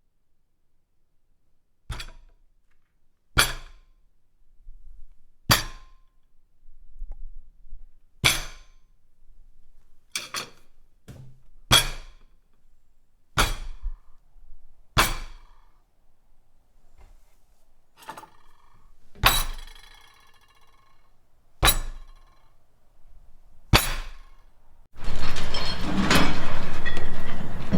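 A series of single sharp hits, about one every one and a half to two seconds, some followed by a short ringing clink. About 25 seconds in, a dense, continuous breaking and crashing clatter begins.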